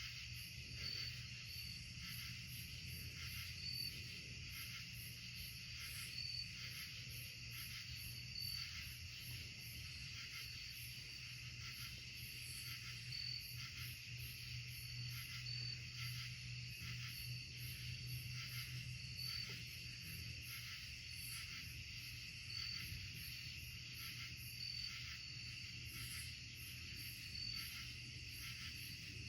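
Night insect chorus: a steady, pulsing buzz and trill, with one short high chirp repeating every second or two. Under it runs a steady low hum.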